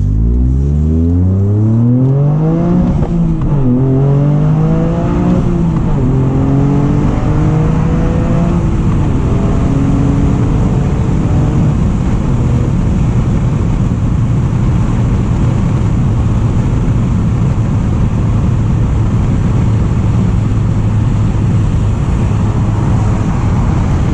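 2023 Toyota GR Corolla's turbocharged 1.6-litre three-cylinder engine through an FI Exhaust cat-back with the valves open, heard from inside the cabin. It accelerates with rising pitch and drops back at each of several upshifts over the first ten seconds or so, then runs at a steady speed.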